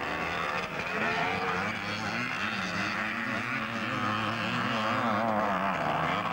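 250cc two-stroke motocross bikes racing, their engines' pitch wavering rapidly up and down as the riders work the throttles.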